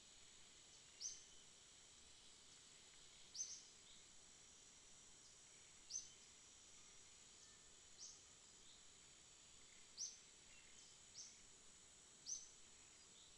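Faint night ambience: a short, high chirp repeating about every two seconds over a steady, high-pitched insect drone.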